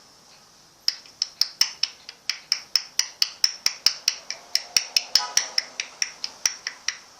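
A rapid, even series of sharp clicks, about five a second, starting about a second in, with a short pitched sound in the middle of the run.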